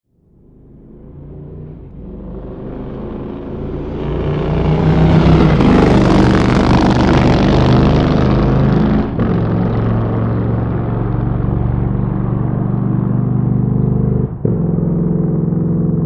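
Motorcycle engine running. It fades in from silence and grows louder over about five seconds, then holds loud and steady, its note broken twice by brief dips about nine and fourteen seconds in.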